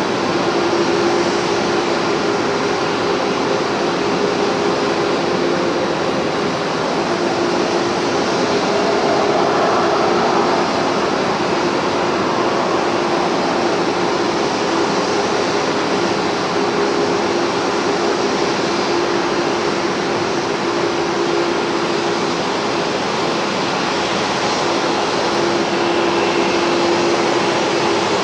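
Airbus A340 jet engines running steadily: a broad, even rush of engine noise with a faint hum that wavers slightly in pitch.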